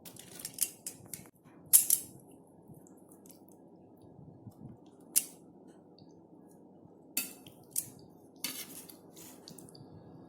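Irregular short, sharp clinks and scrapes of a utensil against cookware while cooking chicken drumsticks, with a few louder knocks, over a faint steady low background noise.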